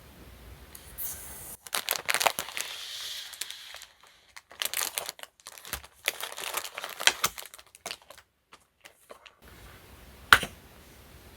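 Plastic and paper packaging crinkling and tearing in three bursts of handling, as a parcel of stationery is unwrapped, then one sharp click.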